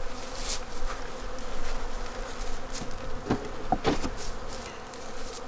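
Honeybees buzzing in a steady drone around an opened hive, with a few light knocks about three to four seconds in.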